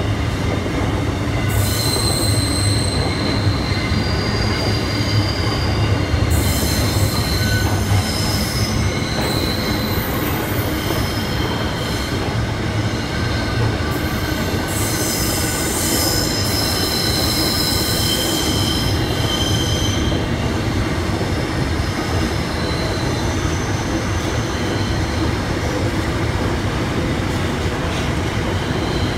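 Loaded container wagons of a long freight train rolling steadily past, a continuous rumble of wheels on rail. High-pitched wheel squeal comes and goes over it, strongest for a few seconds at a time near the start, around a quarter of the way in, and again a little past the middle.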